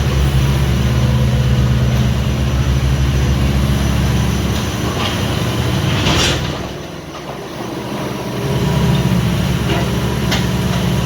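Hitachi ZX26U mini excavator's diesel engine running steadily. Its note drops away for about two seconds around six seconds in, then builds back up. A sharp knock comes just before the drop, and another comes about ten seconds in.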